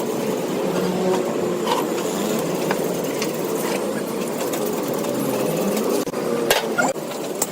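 A machine running steadily with a dense mechanical clatter, scattered light clicks, and a couple of sharp metallic knocks near the end.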